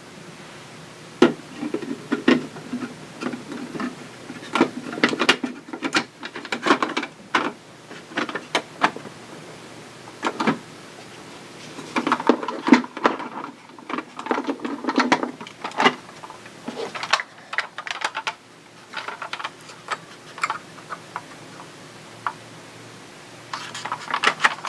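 Hard plastic parts of a 1995 Kenner electronic X-Wing toy being handled and fitted back together: irregular clicks, taps and rattles in clusters, with short quieter gaps.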